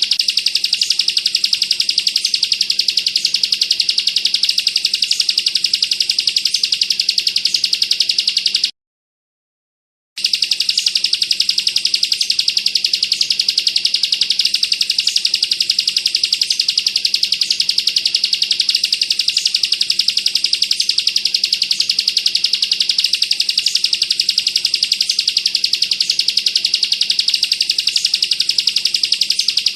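Ciblek kristal (bar-winged prinia) singing a fast, unbroken 'bren' trill: a dense rattle of high notes like machine-gun fire. It cuts out completely for about a second and a half around nine seconds in, then carries on unchanged.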